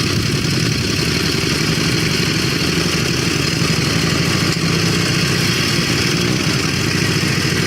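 Antique motorcycle engine idling steadily, its rapid firing pulses even throughout.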